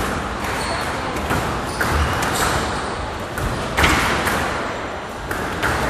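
A squash rally in a reverberant hall: irregular sharp knocks of the ball off rackets and court walls.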